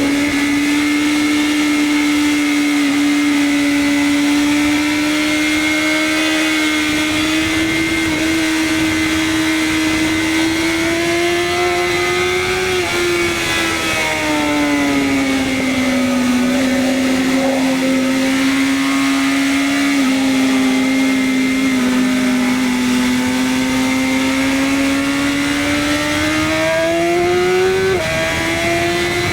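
BMW S1000RR inline-four engine running at high revs on track. The pitch climbs slowly, then drops sharply about 13 seconds in and again near the end.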